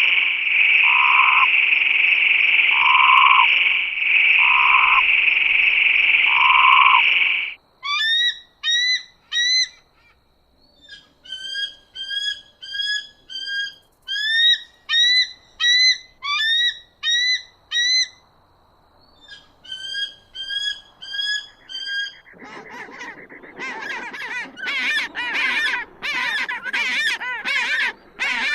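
A sequence of different animal calls. First, a steady trilling amphibian chorus with a regular pulsed call about every second and a half. After about seven seconds it cuts to a bird giving short, sharply rising calls in runs, about two a second. From about 22 seconds a larger bird starts loud, rapid honking calls.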